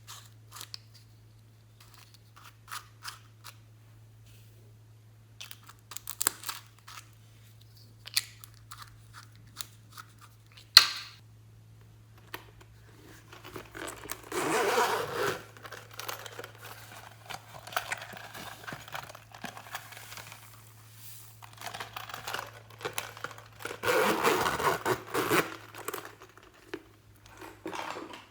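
Glossy slime being worked by hand, sticky and crackling: scattered small clicks and pops, one sharp snap about a third of the way in, then longer stretches of crackling and squishing in the second half. A steady low electrical hum runs underneath.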